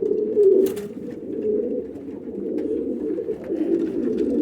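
Domestic pigeons cooing in a loft, many birds overlapping in a continuous low warbling drone, with a few faint clicks and scuffs.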